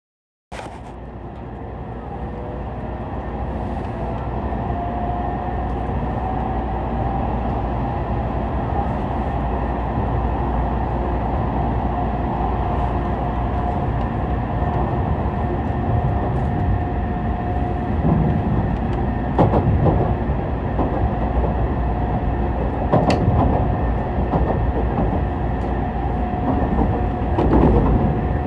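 Tokaido Shinkansen train pulling away and gathering speed, heard from inside the car: a steady rumble under an electric whine that rises in pitch over the first several seconds and then holds level. A few sharp clicks come in the second half.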